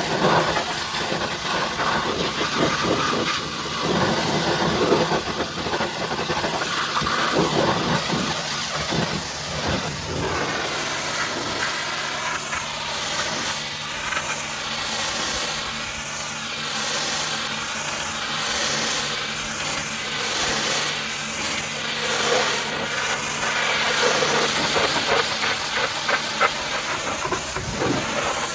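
A high-pressure washer jet hissing steadily as it sprays, with a steady machine hum underneath. The hiss's tone sweeps up and down from about ten seconds in.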